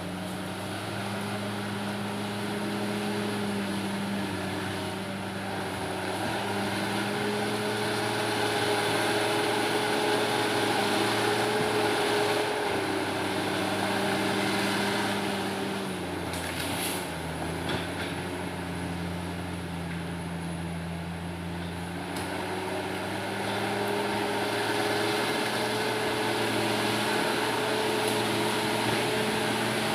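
Komatsu D68ESS crawler bulldozer's diesel engine running steadily. Its pitch drops briefly about halfway through, then recovers.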